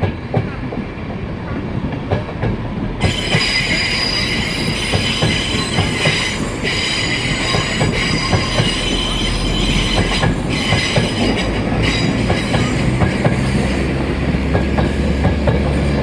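A train moving through the station, its wheels clicking over rail joints and points. About three seconds in, a high metallic squeal from the running gear starts and carries on, dropping out briefly twice.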